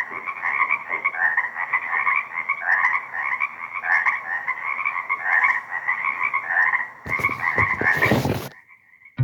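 A wetland frog chorus in early spring: many frogs calling at once in dense, overlapping, repeating calls. About seven seconds in, a loud burst of rushing noise covers them for a second or so. Then the sound drops away suddenly, leaving only a faint call near the end.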